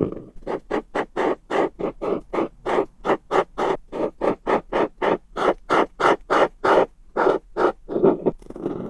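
Rapid back-and-forth coloring strokes, each a short scratchy rasp, about three or four a second, with a brief pause about seven seconds in.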